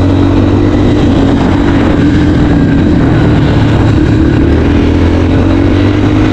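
Dirt bike engine running steadily and loud while being ridden, its pitch dipping slightly in the middle and rising again near the end.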